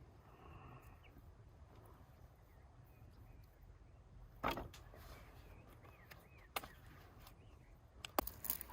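Faint outdoor quiet broken by three or four short, sharp knocks, the clearest about four and a half seconds in and another about two seconds later.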